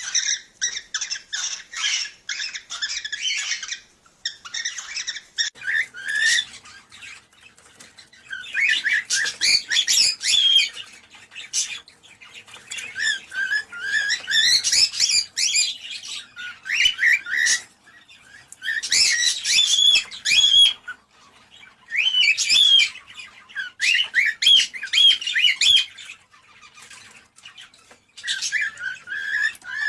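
Cockatiels chirping, whistling and squawking in quick, high, gliding phrases a few seconds long, with short pauses between them. This is the kind of cockatiel chatter played to encourage cockatiels to breed.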